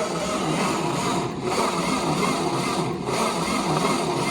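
Ford 640 tractor's four-cylinder engine being turned over by its electric starter, cranking steadily without firing, since the ignition has no power yet.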